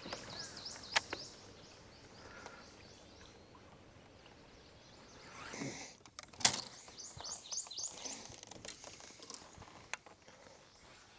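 Birds calling: series of quick down-slurred chirps, in the first few seconds and again in the second half. A click about a second in and a sharp knock just past the middle, the loudest sound.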